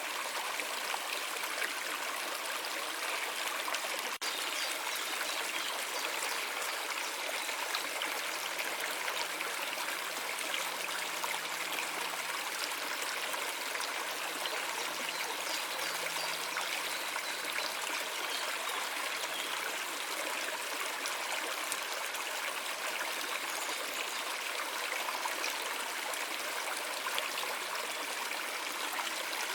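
A stream of water flowing steadily, with a momentary dropout about four seconds in.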